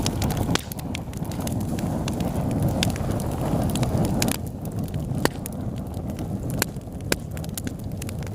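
Wood fire burning in a fireplace: a steady low rush of flame with frequent sharp crackles and pops at irregular intervals.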